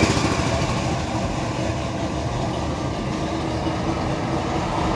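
A 1957 Chevy Bel Air's 350 small-block V8, bored 30 over with a mild cam, idling steadily.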